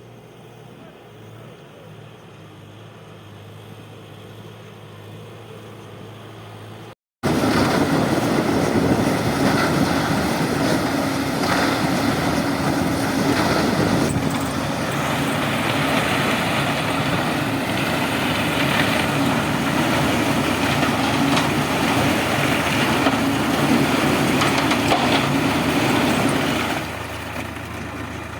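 A heavy vehicle's engine running: quiet with a low hum at first, then much louder and busier after a sudden cut about seven seconds in, easing down near the end.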